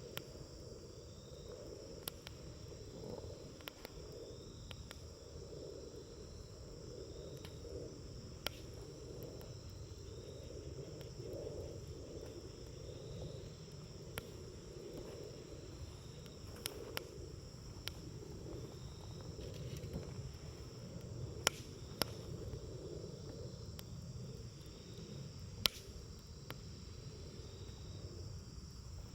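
Wood campfire burning with a low steady rush and scattered sharp crackles and pops, a few of them louder, at irregular intervals. Insects chirp steadily in the background.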